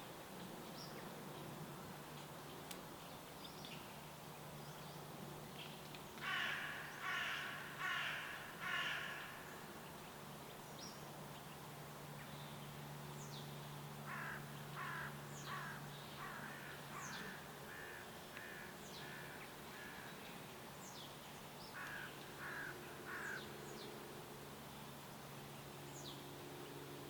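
Birdsong: a bird giving harsh calls in series, four loud ones about six seconds in, another run around fourteen seconds and three more near the end. Thin high chirps from small birds fall between the calls, over a faint steady low hum.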